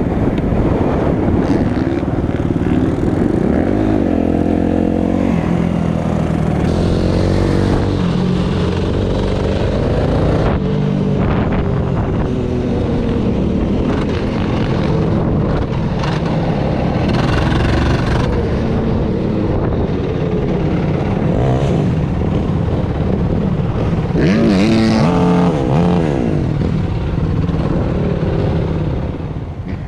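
Off-road vehicle engine running while riding, revving up and down again and again as the throttle opens and closes.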